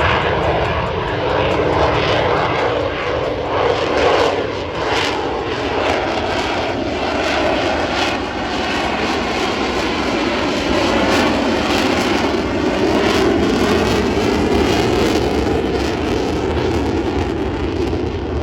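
Airplane engine running steadily as an aircraft flies in view.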